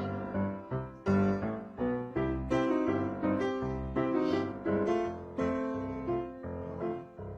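Background piano music, notes struck one after another, each ringing and fading.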